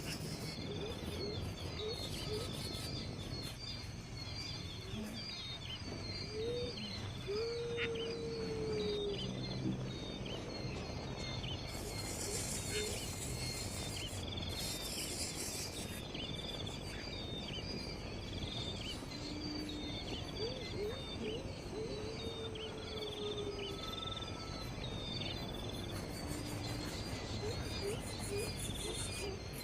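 Many birds chirping and calling in quick, repeated short notes, with insects over a steady background of outdoor noise. A few lower calls glide in pitch twice along the way.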